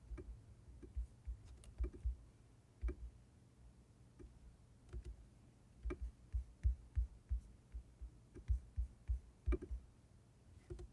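Scattered soft clicks and taps from computer input, coming irregularly, in quick runs of several at a time in places.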